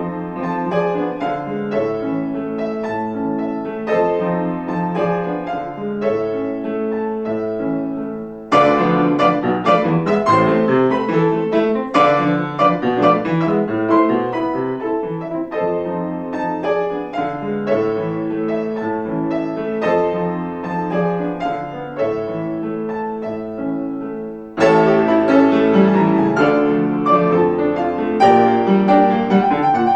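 Piano playing classical music, moderately loud passages broken by sudden louder, fuller sections about eight seconds in and again near twenty-five seconds.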